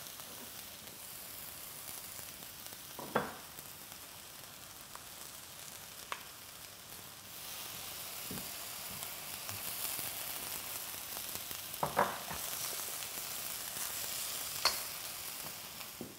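Meat strips and sliced peppers sizzling as they are stir-fried in a hot wok, with a few sharp knocks of wooden spatulas against the pan. The sizzle grows louder about halfway through as more food goes into the wok.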